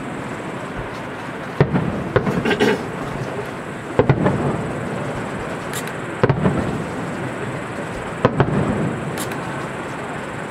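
Aerial firework shells bursting: sharp bangs about every two seconds, often two in quick succession, each followed by a long rumbling echo.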